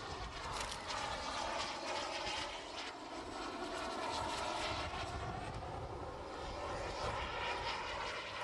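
Twin gas turbine engines of a scale model MiG-29 jet running at power, a steady jet rush and whine.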